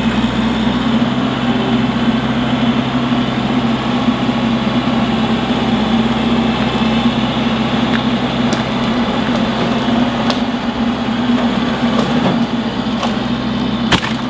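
A Kubota tractor's diesel engine running steadily under load while it pushes over a dead tree, with a few short sharp snaps in the second half.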